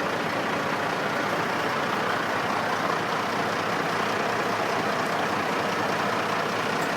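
Truck engine running steadily at idle, an even, unbroken drone.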